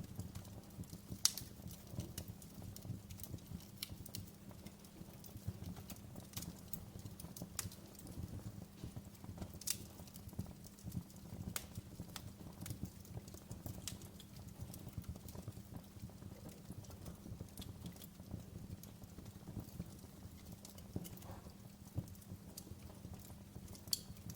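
Wood fire crackling in a fireplace: a steady low rumble of burning with scattered sharp pops and snaps, the loudest about a second in and near the end.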